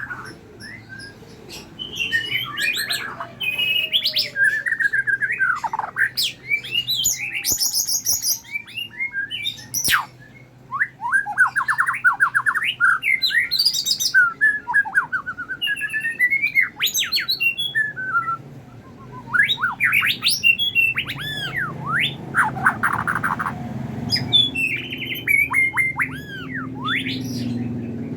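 White-rumped shama (murai batu) singing a long, varied song of clear whistles, fast trills and rising and falling sweeps, broken by short pauses.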